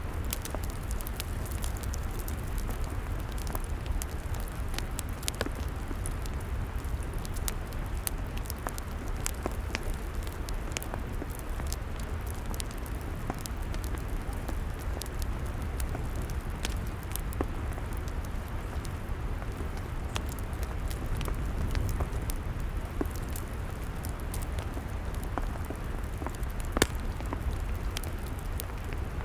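Log fire crackling, with frequent sharp pops over a steady low rumble; one louder pop near the end.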